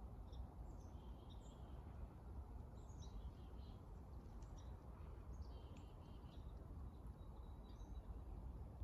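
Wild birds chirping faintly in short high notes and brief whistles over a steady low rumble.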